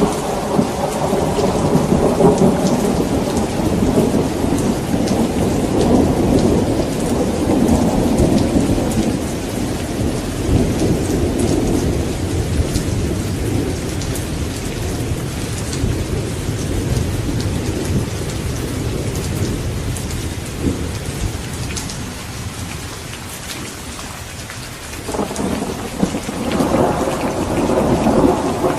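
Thunderstorm: steady heavy rain hissing throughout, with a long rolling rumble of thunder that slowly fades through the middle, then a fresh peal of thunder rising near the end.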